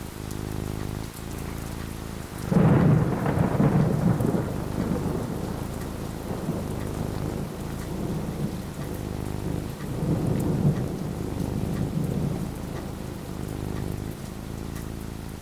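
Steady rain falling, with a clap of thunder breaking about two and a half seconds in and rumbling away over several seconds. A second rumble swells around ten seconds in.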